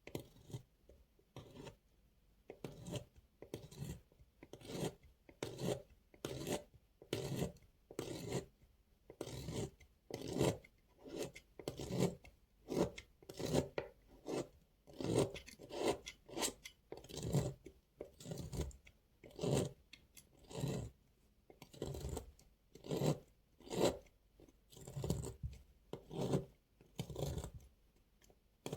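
A knife cutting through dry bar soap, a crisp scraping crunch with each stroke, repeated steadily about one and a half times a second.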